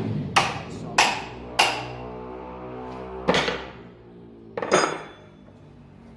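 Hammer striking metal five times: three blows about half a second apart, then two more spaced out. Each blow leaves a ringing metallic tone.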